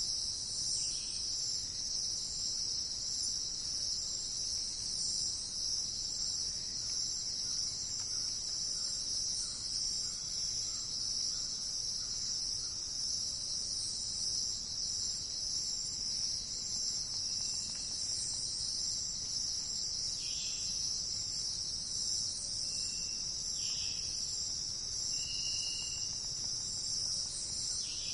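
Steady, high-pitched insect chorus trilling without a break, with a few short, faint bird chirps in the latter half.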